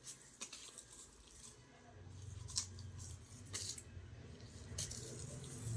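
A dog chewing and tearing leaves: a few short, sharp crunches a second or so apart over a low hum.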